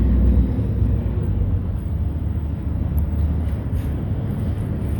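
A steady low rumble of a vehicle running.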